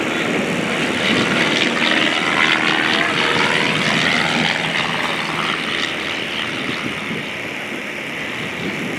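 Clipped-wing Taylorcraft's Continental 85 four-cylinder air-cooled engine and propeller running at full power on takeoff, steady and then growing a little fainter over the last few seconds as the plane moves away.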